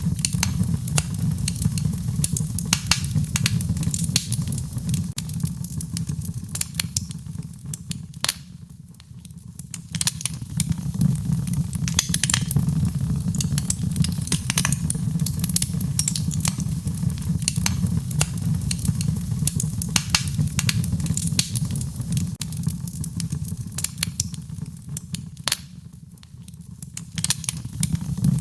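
Wood fire in a fireplace crackling, with many sharp pops and snaps over a steady low rumble. The crackling thins out briefly twice, about nine seconds in and near the end.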